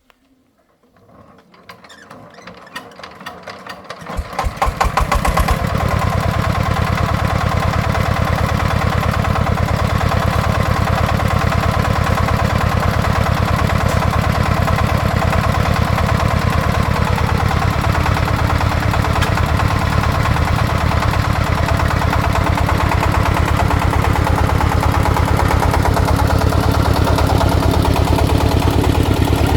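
Single-cylinder diesel engine of a công nông farm vehicle being started: thumps grow louder and faster over about four seconds until it catches. It then runs steadily with an even pulse.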